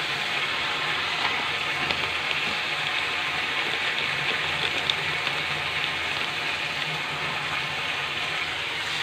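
Steady sizzling of spices frying in oil in a pan, with a couple of faint clicks.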